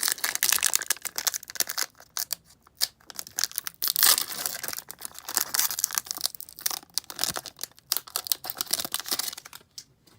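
Foil wrapper of a Pokémon trading card booster pack crinkling and tearing as it is opened by hand, in bursts, the loudest about four seconds in.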